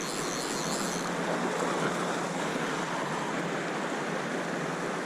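River water rushing steadily over rocks in a shallow run, a continuous even wash with no breaks.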